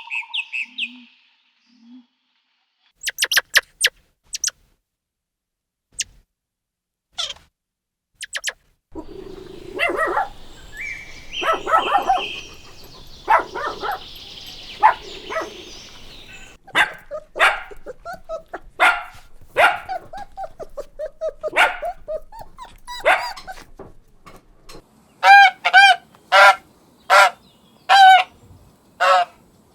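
Dog barking, a string of separate short barks, with a quick run of about six evenly spaced barks near the end.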